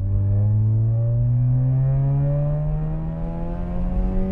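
Mazda RX-8's twin-rotor Renesis rotary engine heard from inside the cabin, accelerating in second gear out of a corner, its note rising steadily.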